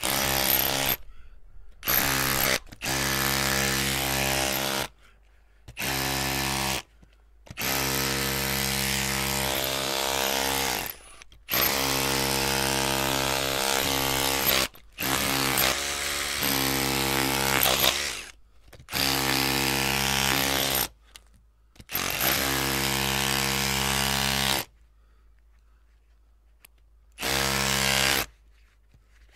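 Electric drill running in repeated bursts of about one to three seconds, its motor whining at a steady pitch, stopping between bursts, with a longer pause of about three seconds near the end.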